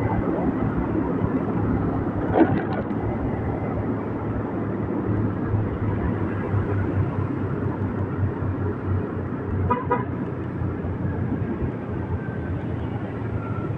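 Motorbike riding through city traffic: steady engine and road noise. A sharp sound about two seconds in, and a short vehicle horn beep about ten seconds in.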